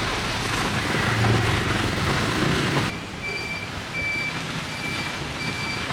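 Street traffic noise, loudest in the first three seconds, then a vehicle's reversing alarm beeping steadily at one high pitch from about three seconds in, roughly three beeps every two seconds.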